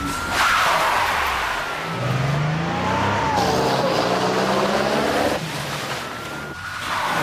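Car engine revving hard as it drives off, with tyres squealing in long rising and falling squeals.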